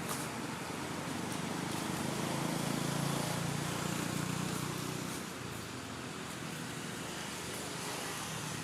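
A motor vehicle's engine hum that swells between about two and five seconds in, then fades, over a steady outdoor hiss.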